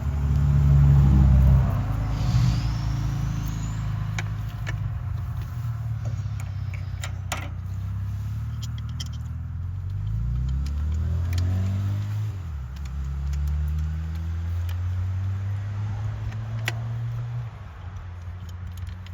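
A motor vehicle's engine running steadily, loudest in the first two seconds, its pitch sliding up and back down about ten to twelve seconds in. Scattered sharp clicks and taps from the work on the truck are heard over it.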